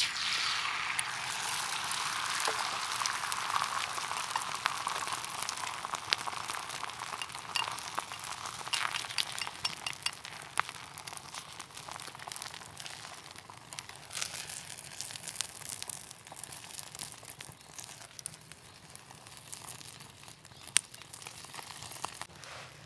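Food sizzling in a hot pan on a wood stove, a steady hiss with scattered small crackles and pops. It starts loud and slowly dies down.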